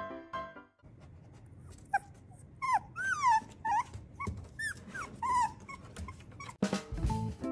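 A dog whimpering: a string of short, high-pitched whines that bend up and down in pitch, about a dozen over three or four seconds.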